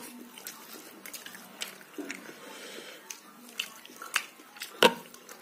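A person chewing and smacking their lips close to the microphone while eating rice by hand, with a run of short sharp clicks; the loudest click comes near the end.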